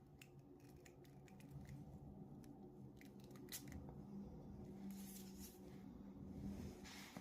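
Faint clicks from handling a small perfume spray vial and its case, with short hisses of the atomizer spraying about five and seven seconds in.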